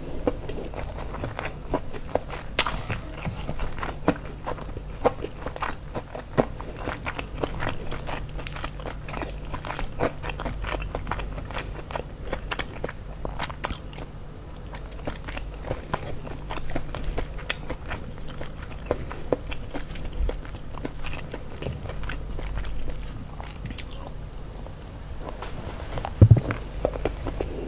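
Person chewing and biting crispy-battered fried chicken with rice, with many small irregular crunches and crackles. A brief louder thump comes near the end.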